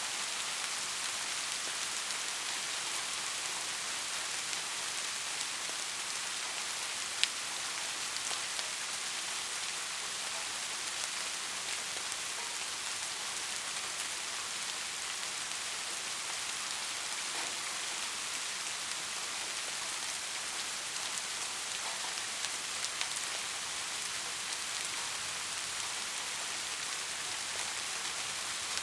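Heavy rain falling steadily, an even hiss with scattered louder drop ticks, one sharp tick about seven seconds in.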